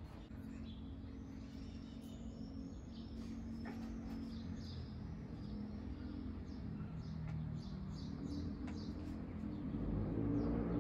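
Small songbirds chirping, short high calls repeated throughout, over a low steady hum.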